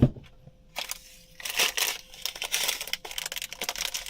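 A sharp thump, then irregular crinkling and rustling noises.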